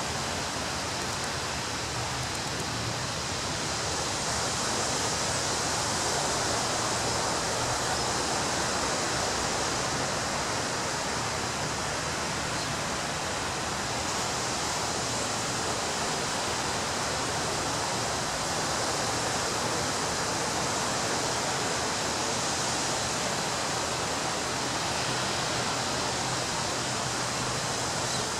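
Ocean surf breaking on a beach: a continuous wash of water noise that swells and eases slowly, with no single sharp crash standing out.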